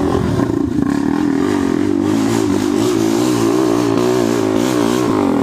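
Dirt bike engine revving up and down repeatedly, its pitch rising and falling over and over.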